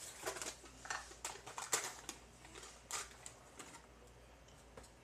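A string of short clicks, taps and rustles of things being handled close by, thinning out after about four seconds.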